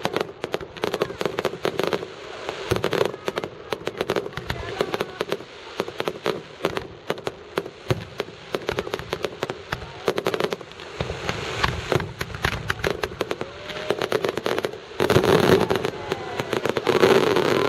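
Fireworks going off in rapid succession: dense, crackling bangs and pops, getting thicker and louder about fifteen seconds in.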